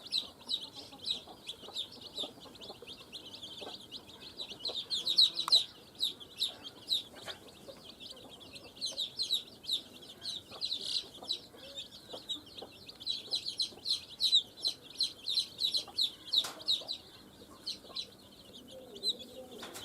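A group of baby chicks peeping continuously: many short, high cheeps overlapping in a dense, unbroken chatter.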